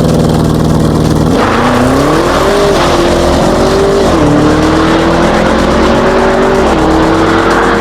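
Audi RS7 Sportback's twin-turbo V8 under acceleration: the engine note holds steady, then from about a second and a half in it climbs and drops suddenly three times as the gearbox upshifts. Each climb after a shift is slower.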